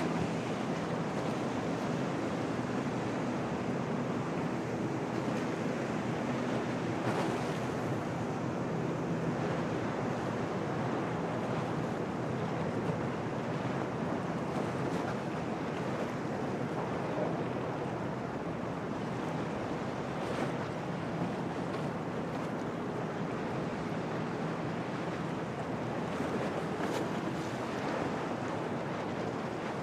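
Waves washing and breaking in a storm-blown harbour, under steady gusting wind, with occasional short surges of spray and gusts. A faint low steady hum sits underneath in the first half.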